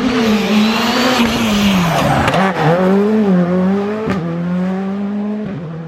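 Skoda Fabia R5 rally car's turbocharged four-cylinder engine, loud, its revs rising and falling several times under hard driving. There is a sharp crack about four seconds in, after which the engine holds a steady note.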